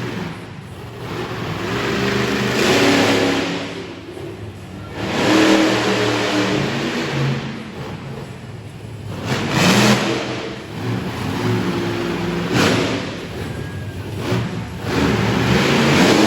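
Monster truck engine revving hard in repeated surges, rising and falling every two to three seconds.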